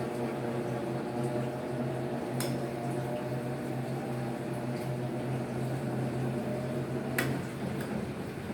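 Electrolux LF75 washing machine running with a steady hum and a faint whine that rises slowly in pitch, with two sharp clicks about two and a half and seven seconds in. The owner suspects the noise comes from the machine's mechanical seal.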